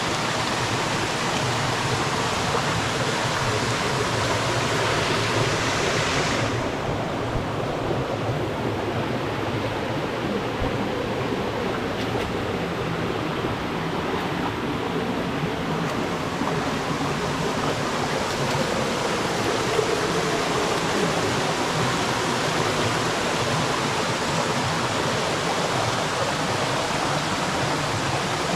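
Steady rushing water, a continuous hiss across the whole range. About six seconds in, the bright upper hiss suddenly dulls, then slowly comes back over the following ten seconds.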